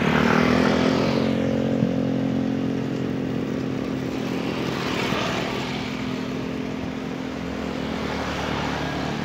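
Engines running steadily, a constant hum under a rushing noise that swells and fades a few times and eases off slightly toward the end.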